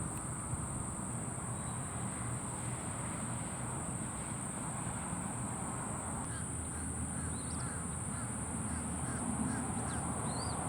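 Outdoor ambience: a steady high insect drone over a low background rumble. From about six seconds in, a run of short, repeated bird calls joins it.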